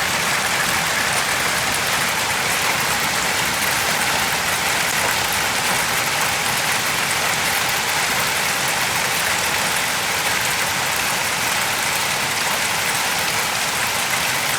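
Heavy thunderstorm downpour with hail, a steady dense clatter of many small hits.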